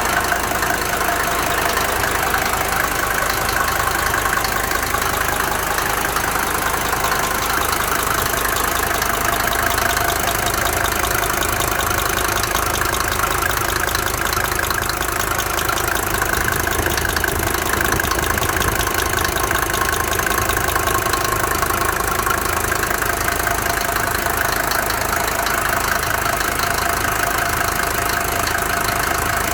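Mercedes 190D's 2.5-litre OM602 five-cylinder diesel idling steadily with a knocking sound, which the owner suspects is a bad hydraulic lifter or a faulty injector.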